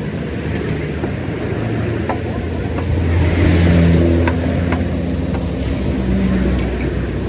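Motor vehicle engine running, growing louder to a peak a little past the middle and then easing off, with a few sharp clicks over it.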